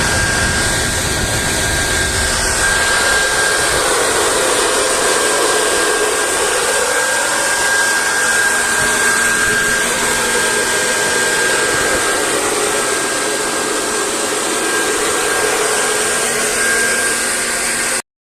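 Industrial high-pressure centrifugal fan with a 0.55 kW, 2800 rpm three-phase motor and 200 mm impeller running at full speed: a steady rush of air with a thin, steady high whine. It cuts off abruptly near the end.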